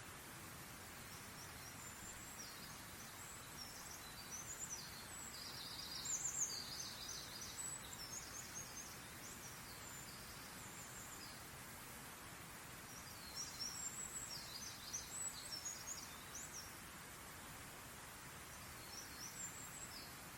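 Songbird singing in quick, high twittering phrases over a steady background hiss: two long runs of song, then a short one near the end.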